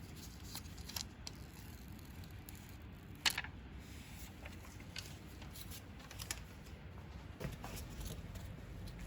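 Faint handling sounds: scattered small clicks and taps, with one sharper click about three seconds in.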